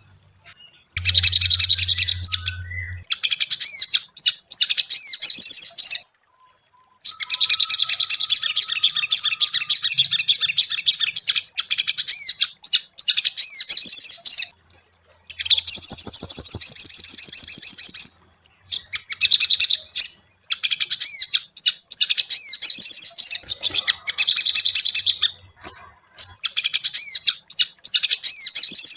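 Ruby-cheeked sunbird (sogon) singing: long bouts of rapid, high chattering twitters and trills, broken every few seconds by short pauses.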